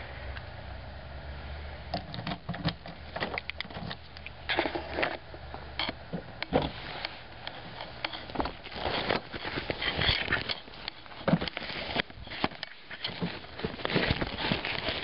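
Rustling and crackling of a fabric car cover being pulled off and handled, in irregular bursts of varying loudness.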